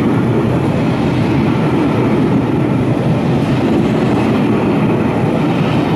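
Passenger coaches of a train rushing past at speed: a steady, loud rumble of the wheels on the rails.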